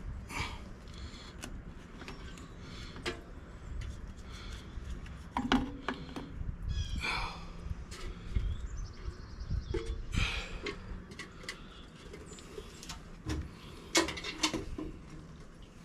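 Scattered light clicks and knocks of hand work on a machine, at irregular moments, over a low steady rumble.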